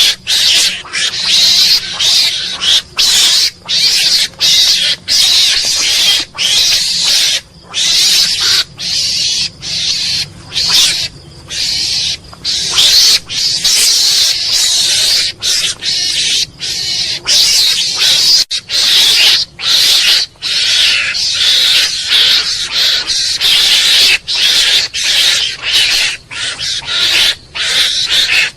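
Mongoose calling: a rapid run of harsh, hissy chattering calls, repeated over and over with brief breaks.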